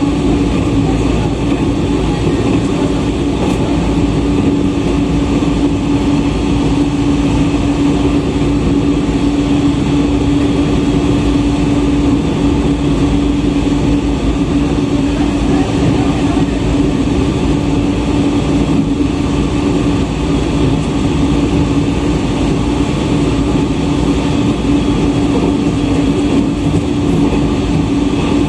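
JR East E127 series electric train running at steady speed: continuous running noise of the wheels on the rails and the car, heard from inside, with a steady hum under it.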